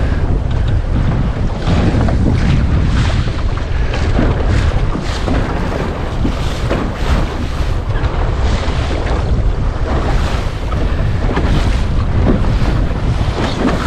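Gusty wind buffeting the microphone on a centreboard sailing dinghy, with water splashing and slapping against the hull in quick, irregular surges as it bounces over waves close-hauled.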